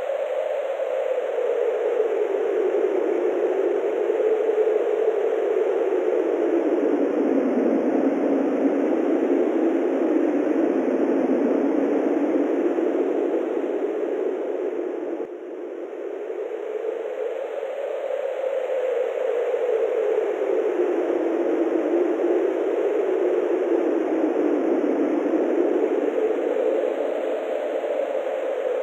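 Wind blowing in a steady rush whose pitch slowly sinks and rises over several seconds at a time, with a brief drop in level about halfway through.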